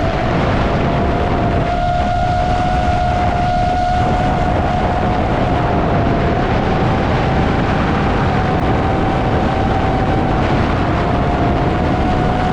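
iFlight Nazgul Evoque FPV quadcopter's brushless motors and propellers whining at a nearly steady pitch over a broad rush of air noise, as in cruising flight.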